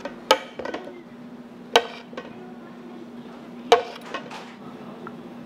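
Sharp knocks and clinks of kitchen equipment being handled, about five in all, the loudest about two and four seconds in, over a steady low machine hum.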